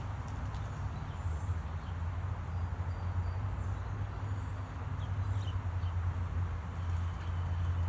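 Birds chirping faintly now and then, a few short high calls, over a steady low rumble.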